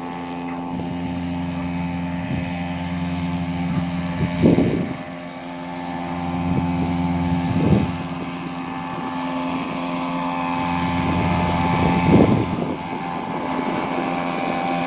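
Hangkai 3.5 hp outboard motor running steadily under way on a small boat, with three brief louder thumps about four, eight and twelve seconds in.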